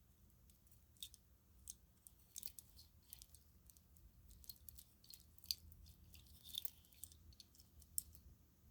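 Faint, irregular light clicks and crackles of a strand of plastic string lights being handled, its bulbs and cord tapping and rubbing.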